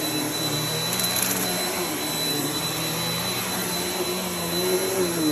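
Vacuum cleaner running steadily, with a high whine and a lower motor hum whose pitch wavers slightly as it works.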